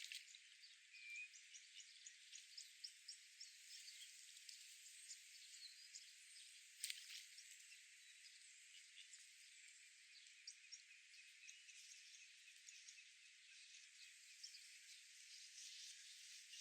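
Faint outdoor park ambience: a soft hiss dotted with many small, high chirps and ticks, with one sharper click about seven seconds in.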